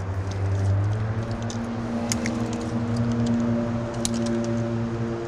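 A steady engine hum holding one even pitch, with a few faint light clicks over it.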